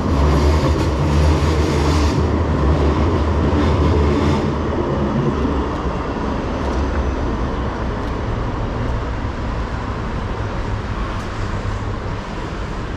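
City street traffic: a heavy vehicle passing close with a loud low rumble for the first four seconds or so, then easing to a steadier traffic hum.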